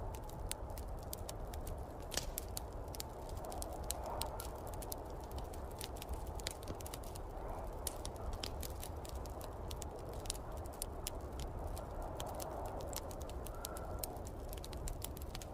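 Wood fire crackling, with frequent sharp irregular pops, over a steady low rumble of snowstorm wind.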